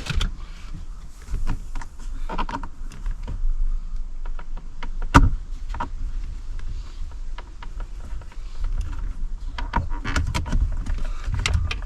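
Car centre-console plastic trim being handled and pried at, giving scattered clicks and knocks. The loudest is a sharp click about five seconds in, and a cluster of clicks comes near the end.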